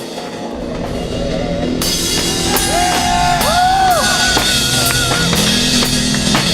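Rock music: a band with drum kit and cymbals, which come in about two seconds in, and sliding high notes over it.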